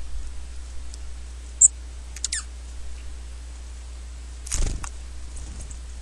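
Birds at a feeder calling: a sharp high chirp about one and a half seconds in, then a few quick falling call notes. A brief rustle follows near the end.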